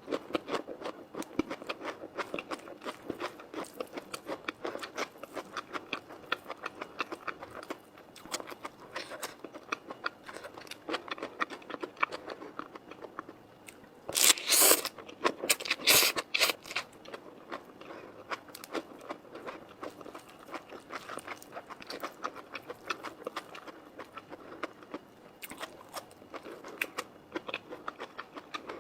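Close-up eating sounds: steady chewing and biting with many small crunchy, wet clicks, and a few louder bursts about halfway through.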